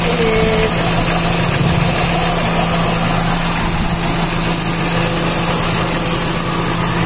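2008 Hyundai Getz 1.1's four-cylinder engine idling steadily with the air conditioning on, its newly replaced electric radiator fan running with it.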